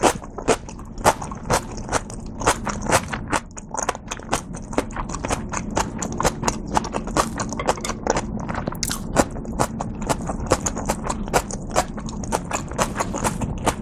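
Close-miked chewing of a mouthful of dumpling, with wet mouth clicks at about two or three a second.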